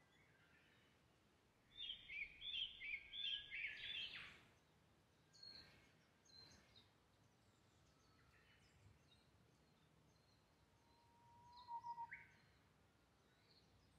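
Wild birds singing over a faint steady background: a quick run of high chirping notes about two seconds in, a few single calls after it, and near the end a long whistled note that breaks into a short higher flourish.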